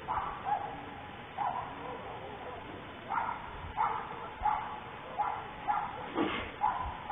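A run of short animal calls, like barking: about nine brief calls, coming closer together in the second half, with one louder, harsher call about six seconds in.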